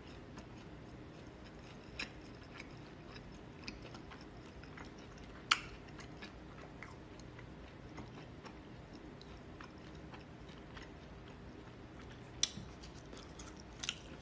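A person chewing a mouthful of noodles with soft mouth sounds, broken by a few sharp clicks, the loudest about five and a half seconds in and again about twelve and a half seconds in.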